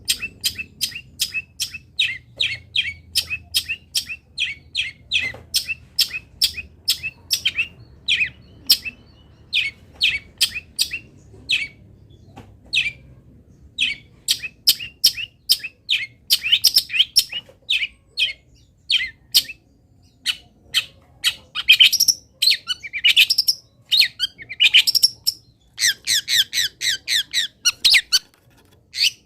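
Long-tailed shrike (cendet) song: a steady run of short, sharp, high chirps, two or three a second, broken in places by quicker twittering phrases. It is a master recording of the fill-in song used to train caged cendets.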